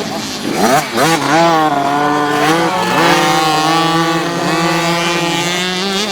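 Youth motocross bike engine revving hard; its pitch dips and climbs a few times in the first three seconds as the rider works the throttle and gears, then it holds at a steady high pitch.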